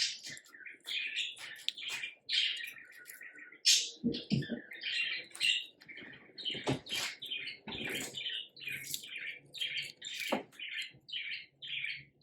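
Sun conure chattering in a long run of short, quick chirps, with a few sharp clicks and knocks among them.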